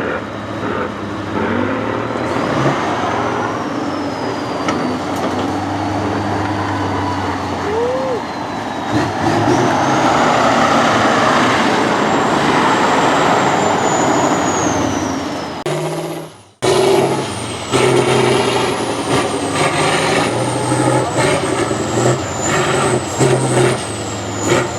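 Off-road trial truck's engine running and revving under load, with a high whine that rises and falls. The sound drops out for a moment about two-thirds through, then picks up again.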